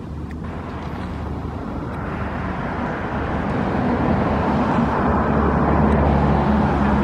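An engine drawing closer and passing: a low hum with a rushing noise that swells steadily to its loudest near the end, then begins to fade.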